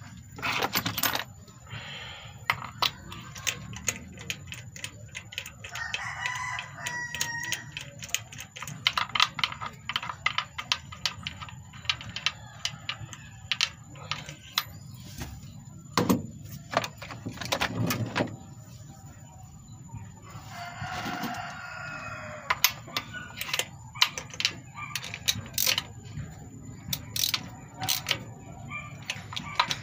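Metal hand tools clicking and clinking as a spark plug is refitted in a small engine. A rooster crows twice in the background, about six seconds in and again about twenty-one seconds in.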